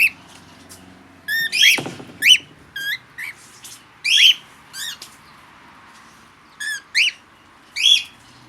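Pet parrots giving short, sharp chirping calls, about a dozen at irregular intervals, each a quick rise-and-fall in pitch.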